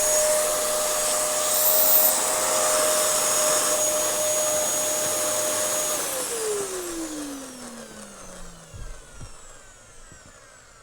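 Dyson DC07 bagless upright vacuum cleaner running steadily with a high whine, then switched off about six seconds in, its motor winding down in falling pitch over a few seconds.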